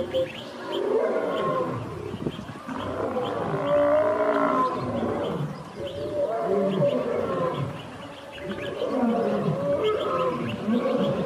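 Several lions growling and snarling in repeated bouts as they attack a Cape buffalo, with a short lull about eight seconds in.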